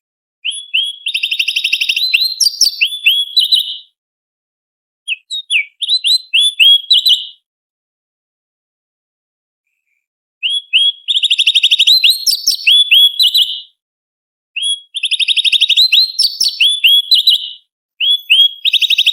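Orange-bellied leafbird singing in five bursts of rapid, sharp, repeated chattering notes, separated by short silent pauses.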